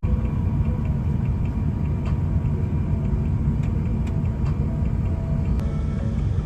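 Steady low rumble of cabin noise inside an Airbus A350-900 airliner on the ground after landing, with faint scattered ticks.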